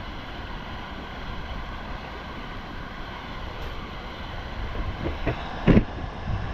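Steady rushing of river water with wind on the microphone. A couple of short knocks come near the end, the second and loudest about five and a half seconds in.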